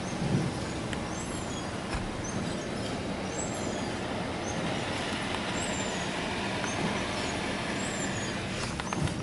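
Mark VII Aquajet GT-500 touchless car wash gantry spraying, a steady rush of water hitting the car heard from inside it. The spray grows louder about halfway through, with a few clicks near the end.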